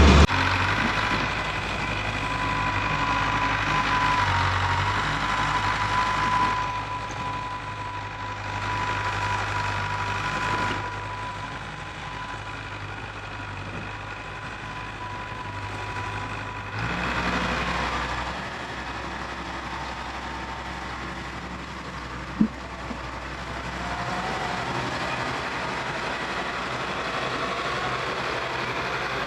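Diesel engine of heavy earthmoving equipment running steadily, its sound changing abruptly a few times. A steady high whine runs through the first half, and a single sharp knock comes about two-thirds of the way through.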